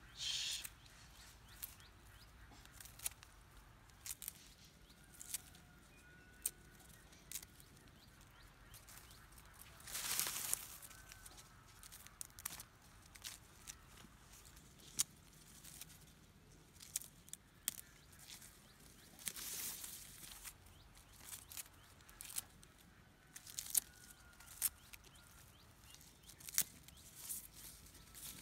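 Quiet scattered rustles and light clicks, with two longer rustling swells about ten and twenty seconds in, and a few faint chirps.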